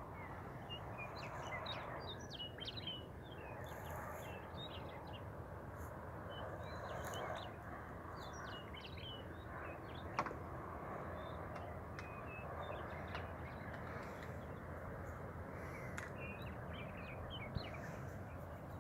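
Birds calling and chirping over a steady low background hum, with a single sharp click about ten seconds in.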